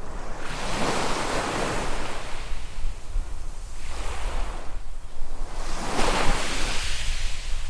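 Small waves breaking and washing up a sandy beach in two swells, one early and one building about five seconds in and loudest around six seconds, over a low rumble of wind on the microphone.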